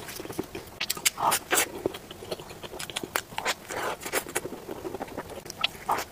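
Close-miked chewing of a flaky layered pastry: irregular crisp crackles and clicks of the flakes and mouth sounds, with another bite into the pastry near the end.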